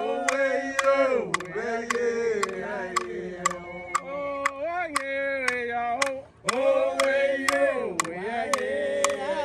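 A group of voices singing a chant, with sharp percussive beats keeping time about three times a second.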